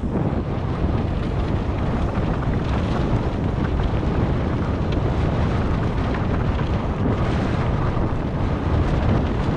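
Wind buffeting the microphone of a GoPro-style camera on a mountain bike descent: a steady, loud low rumble, with faint ticks and rattles from the bike over the trail.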